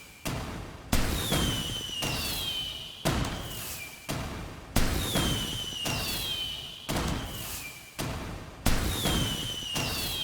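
Fireworks going off: sharp bangs every one to two seconds, each trailing off in a long rumbling decay. A high whistle slides downward in pitch several times among the bursts.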